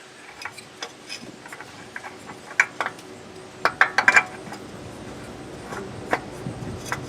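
Scattered metal clinks and taps of hand tools and parts being handled during an oil change, with a quick run of sharper clinks about four seconds in.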